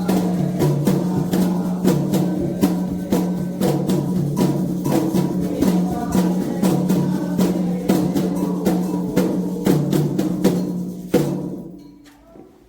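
Candomblé drumming on atabaque hand drums, a dense, steady, driving rhythm that fades out about a second before the end.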